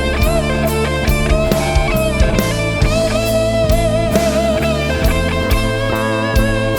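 Electric blues band playing an instrumental break: a lead electric guitar holds and bends notes with a wavering vibrato over bass and a steady drum beat.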